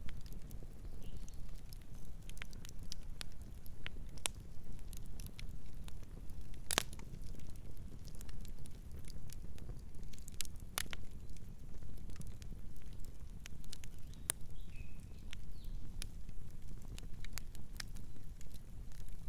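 Wood fire crackling, with irregular sharp pops (the loudest about 7 s in) over a steady low rumble. A faint short bird chirp comes about three-quarters of the way through.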